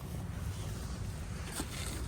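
Wind buffeting the microphone: an uneven low rumble, with a faint tick about one and a half seconds in.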